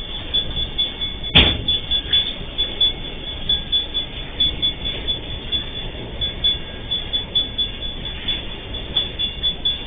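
Empty MRS Logística freight wagons rolling past, their wheels making a quick, uneven clatter with one sharp bang about a second and a half in. A thin, high ringing squeal from the wheels sits over it.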